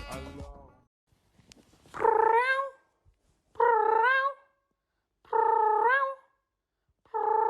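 A cat meowing four times at even intervals, each meow a drawn-out call that rises in pitch at the end. Music fades out just before the first meow.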